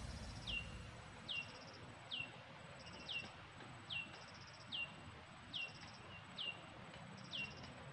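A bird calling over and over, a short whistled note that falls in pitch, repeated a little more than once a second, with a buzzy chirp after every second note.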